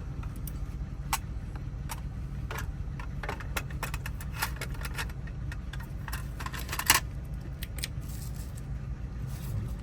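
Small metal clicks and taps of a lock cylinder being rekeyed: tiny pins and tools picked out and set down, with a sharper rattle of clicks near seven seconds in, over a steady low hum.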